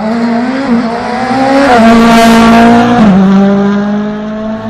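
Rally car engine held at high revs as the car passes close, loudest about two seconds in, with a brief drop in pitch about three seconds in.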